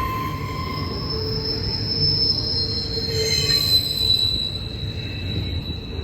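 Freight train rolling past, its wheels squealing on the rail in a high, thin squeal that slowly drops in pitch over a low rumble of the cars.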